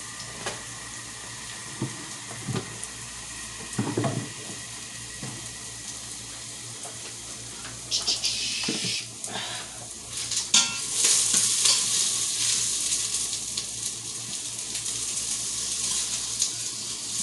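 Kitchen work sounds: a few knocks and clinks of cans and dishes, then a steady hiss that starts about eight seconds in and gets louder a few seconds later.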